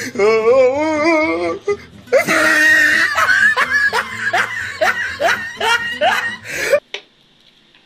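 Comic laughter sound effect: a wavering, warbling voice, then a long run of rising cackles over music. It cuts off abruptly near the end.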